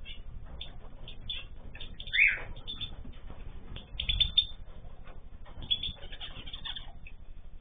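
Ornamental cage birds chirping and calling in short, overlapping notes, with one louder falling call about two seconds in.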